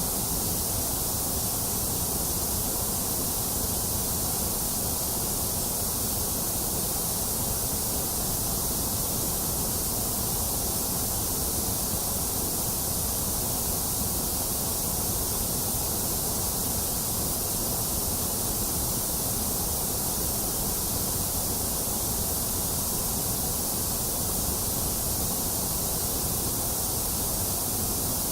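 Steady, unchanging white noise: an even hiss, brightest in the high treble, with no breaks or events.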